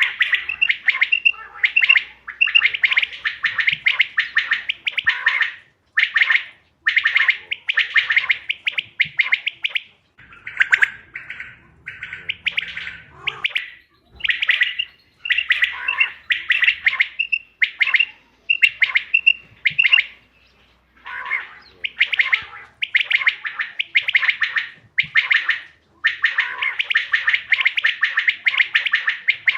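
Quail calling over and over in rapid, rattling phrases, with a few short clear notes between them. The calls come in bouts of a few seconds with brief pauses, and are quieter around the middle.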